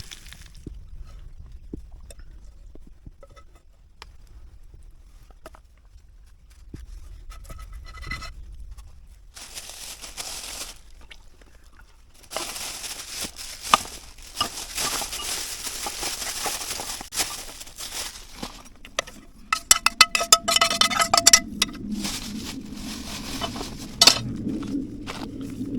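Rustling and handling noises, with a quick run of metallic clinks about twenty seconds in.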